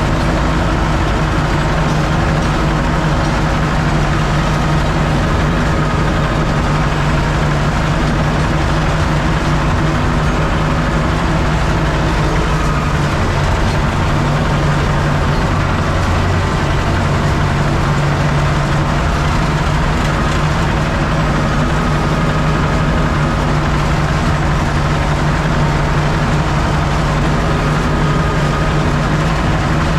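Diesel engine of a Universal U650 tractor running steadily under load, pulling a row-crop cultivator through a maize field.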